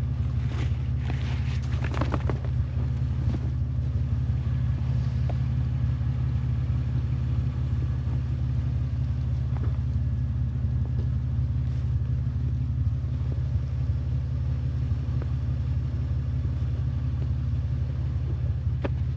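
Vehicle engine running steadily with an even low hum, with a few light knocks in the first few seconds.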